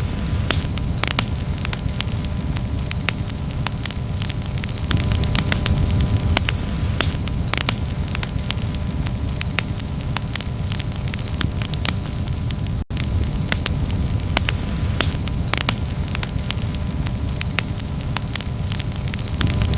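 Campfire burning: wood crackling with frequent sharp snaps and pops over a steady low rumble of the flames. The sound drops out for a split second about two-thirds of the way through.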